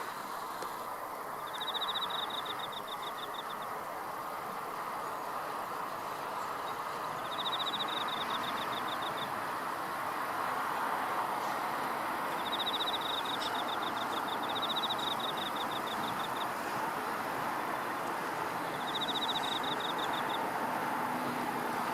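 An insect repeating a high, fast-pulsed trill of about two seconds, five times at intervals of a few seconds, over a steady broad background hiss.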